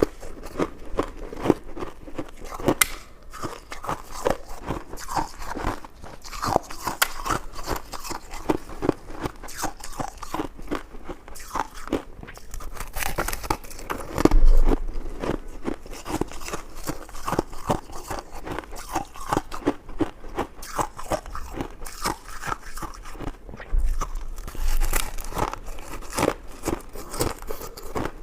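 Close-miked eating sounds: a steady run of bites and chewing with many small wet clicks and smacks, and one louder thud about halfway through.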